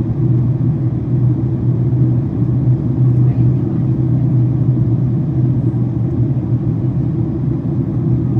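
Steady low drone inside the cabin of a Boeing 767-400ER airliner in descent: engine and airflow noise.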